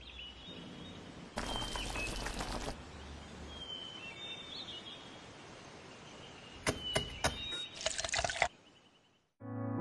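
Birds chirping over a faint outdoor hiss, with two short bursts of liquid being poured: one about a second and a half in, and another near the end just after a few sharp clicks.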